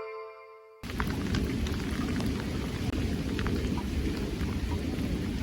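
Steady rain falling, with many small drop taps over a continuous hiss and a deep rumble underneath; it cuts in abruptly about a second in, as the tail of a chiming music intro fades out.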